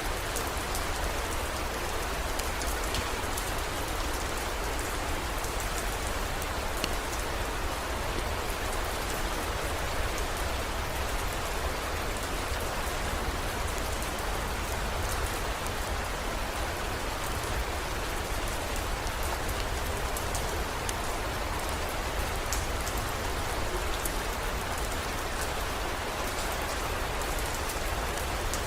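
Steady heavy rain, an even hiss with scattered sharp drop ticks and a constant low rumble underneath.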